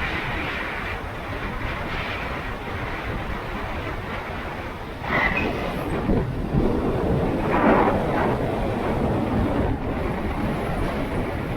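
Motorcycle on the move: engine and road rumble mixed with wind noise on the microphone. The noise gets louder about five seconds in.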